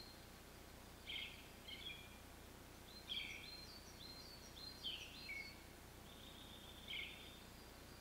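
Faint songbird chirps in short quick phrases every second or two, with a thin high held note in the last couple of seconds, over a faint steady low hum.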